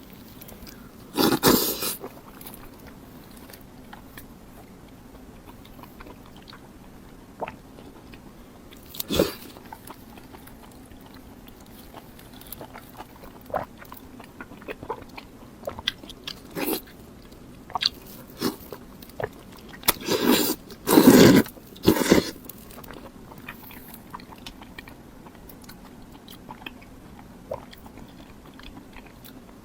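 A person biting and chewing food close to the microphone, in separate bites: one about a second and a half in, another around nine seconds, and the loudest cluster around twenty to twenty-two seconds.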